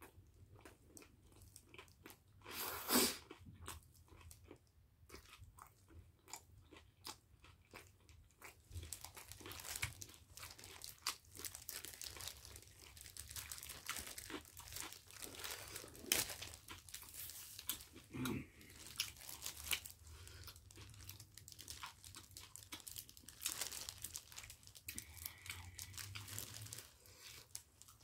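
Close-up chewing and small mouth clicks of a person eating, with the crinkle of disposable plastic gloves as kimchi is handled.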